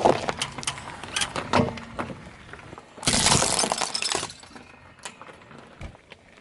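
Brittle objects cracking and shattering as a vehicle's tyre rolls over and crushes them. There is a loud crack at the start, a run of crackles, and a dense crunching burst about three seconds in.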